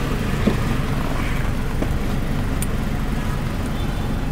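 Car engine idling steadily, heard from inside the cabin, with a low even hum and faint street noise.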